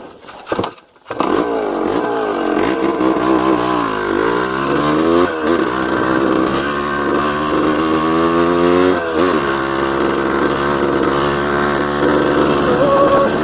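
Yamaha DT 180's two-stroke single-cylinder engine starting about a second in after a few knocks, then running, with the revs rising and falling twice.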